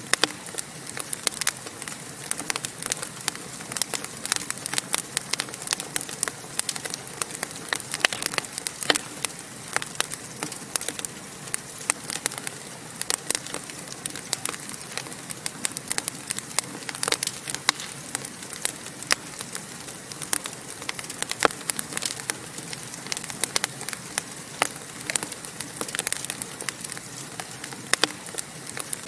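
Fire crackling in a fireplace: many irregular sharp pops and snaps over a steady hiss.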